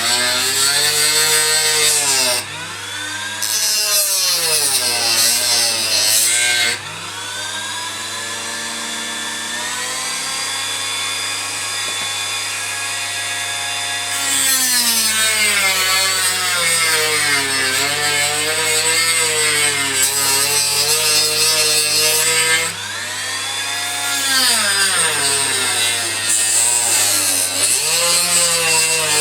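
Small rotary tool with a cutting disc grinding isolating gaps through copper-clad track sleepers, its motor pitch rising and dipping as it loads up and frees off; the gaps stop the copper shorting across the rails.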